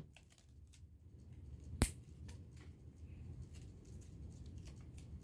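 Light clicks and snips of paper and tape being handled at close range while a paper puppet is put together, with one sharper click about two seconds in.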